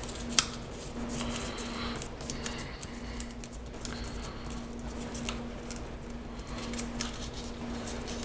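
Origami paper being folded and creased by hand: scattered crinkles and rustles, with one sharp paper crackle about half a second in.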